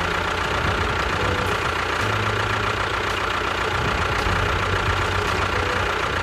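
An engine running steadily with a fast, even, low rattle and a thin steady whine over it.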